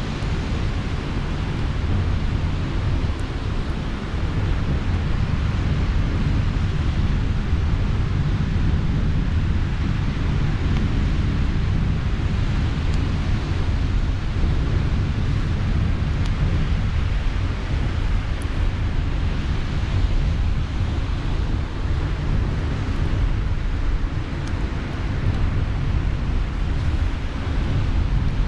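Steady low rumble of wind on the microphone over the wash of sea surf, with faint occasional crackles from a campfire.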